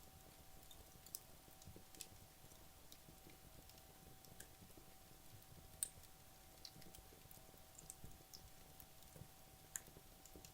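Wood logs burning in a fireplace, crackling faintly with scattered sharp pops and ticks, the loudest pop about six seconds in.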